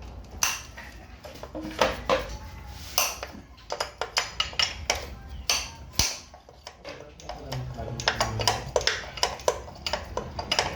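Metal tools and engine parts clinking and tapping against each other while the top end of a motorcycle engine is taken apart. There are scattered single clinks at first, then a quick run of them in the last few seconds.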